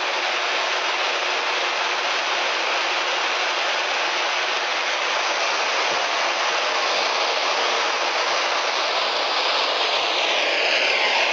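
Steady loud hiss of static from a ghost-hunting 'SLS' spirit-box app, played through a device speaker, with faint sweeping tones near the end.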